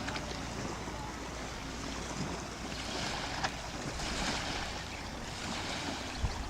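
Steady rushing of wind and waves on open water, with wind buffeting the microphone.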